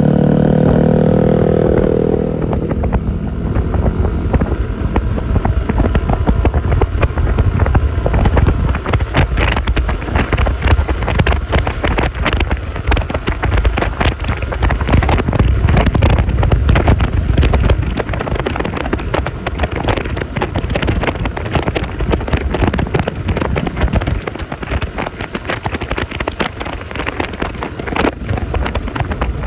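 Wind buffeting the microphone over the engine and road noise of a Yamaha Lexi LX 155 scooter under way, with a pitched engine note falling away in the first couple of seconds.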